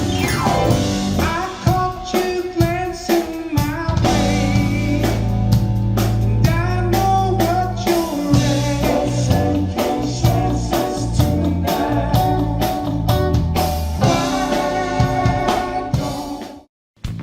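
Live rock band playing: electric guitar lines over bass and a drum kit. The sound cuts out abruptly for a moment near the end, then the band comes back in.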